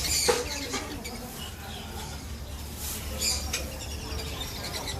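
Small caged animals chirping and squeaking with short, high calls: a sharp cluster just after the start and another a little past three seconds in, over faint background chatter.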